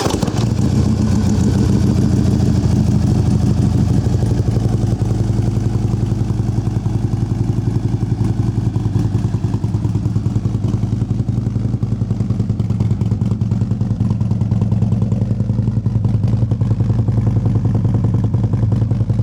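2013 Harley-Davidson CVO Ultra Classic's Screamin' Eagle 110 V-twin idling steadily with an even, rapid pulse, through a Vance & Hines X-pipe and Vance & Hines mufflers. The engine has just been started.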